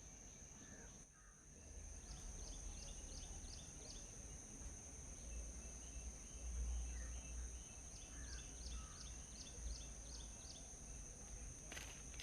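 Small birds chirping faintly in quick series of short, high chirps, over a steady high-pitched whine and a low rumble. Near the end there is a brief rustle.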